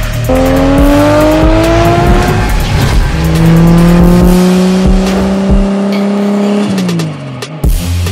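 Toyota Supra (JZA80) twin-turbo 2JZ-GTE straight-six accelerating hard, its pitch rising, then dropping at a gear change about three seconds in and climbing more slowly again. Near the end the engine pitch falls away.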